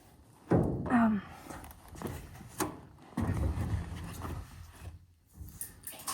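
Hollow thunks and knocks of a hydraulic-oil container being handled and set in place for pouring, two loud knocks about half a second and a second in, a sharper knock near the middle, then a rougher scraping stretch.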